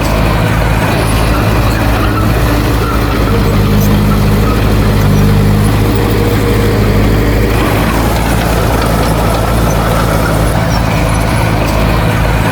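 Heavy diesel engine of earthmoving machinery running steadily, a low, even drone that grows slightly louder for a few seconds in the middle.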